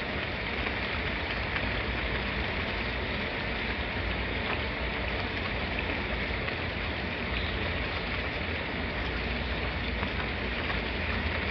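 Steady rain: a continuous even hiss with faint scattered drop ticks over a low rumble.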